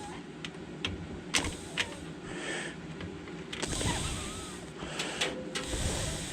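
Small handling noises: a few sharp clicks and light rustling as a jumper wire is fitted across the furnace's red and white thermostat terminals.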